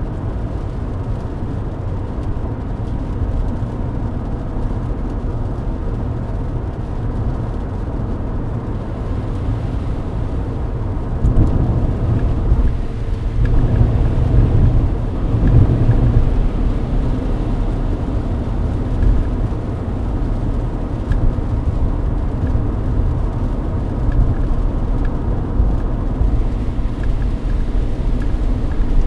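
Steady low in-cabin drone of a Mercedes-Benz W124 driving at highway speed in the rain: engine and tyres on wet road. The drone swells louder for a few seconds about halfway through, then settles back.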